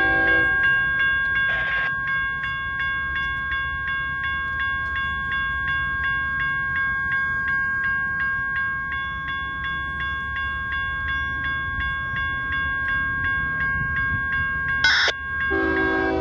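A railroad grade-crossing bell rings steadily at about three strikes a second over the low rumble of a passing train. A train horn blast cuts off about half a second in, a short loud crack sounds near the end, and the horn sounds again just before the end.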